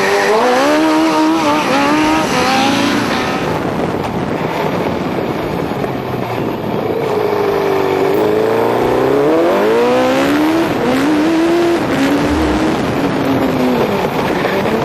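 Go-kart with a Suzuki GSX-R1100 inline-four motorcycle engine being driven hard. The engine pitch climbs and falls off again about three times as it accelerates and lifts off.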